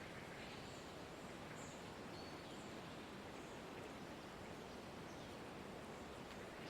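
Faint forest ambience: a steady soft hiss with a few brief, high bird chirps.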